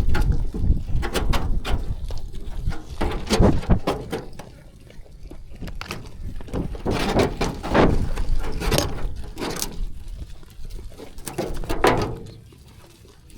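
Sheep moving and feeding at close range: a busy, irregular run of knocks and thuds that dies down near the end.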